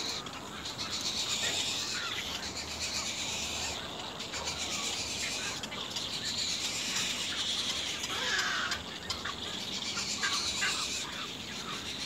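Birds calling, with short calls clustered about two thirds of the way through, over a steady high-pitched buzz that swells and fades every couple of seconds.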